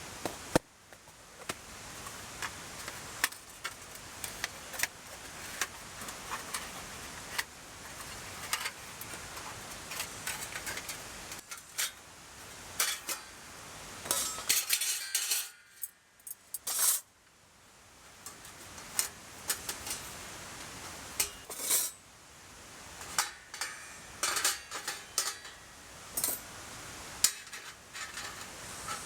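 Metal parts of a camp fire pit clinking and clattering as they are handled and fitted together: many short, irregular clinks, busiest about halfway through and again near the end.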